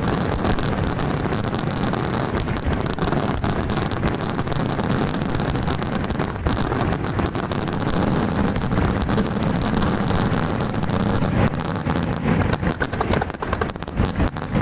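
Dense, continuous barrage of aerial firework shells bursting. The many blasts merge into one steady rumble with sharp cracks on top, and a few louder separate bangs come near the end.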